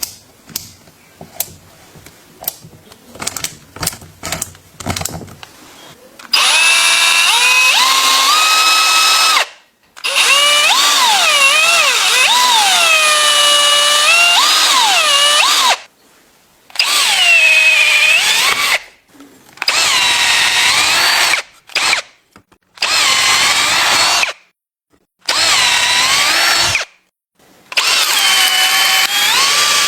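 Handheld electric drill run in about seven loud bursts, its motor whine rising and falling in pitch as the trigger is squeezed and eased, with short stops between runs. A few light clicks and knocks come in the first several seconds before the first run.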